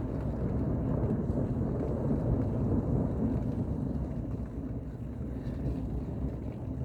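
Thunder rumbling low and long, slowly fading away over the last few seconds.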